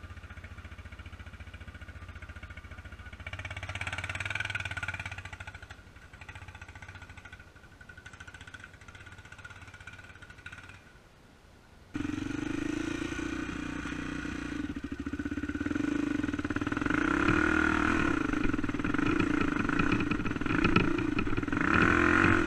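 Four-stroke single-cylinder dirt bike engine running, quieter for the first half with a brief swell, then suddenly much louder about halfway and building louder toward the end.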